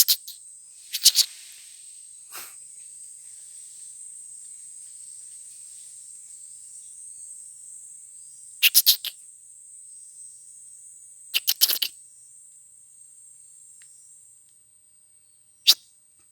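Steady high-pitched insect chirring, like crickets, that fades out near the end. It is broken by about five short clusters of sharp crackling clicks, a few strokes each.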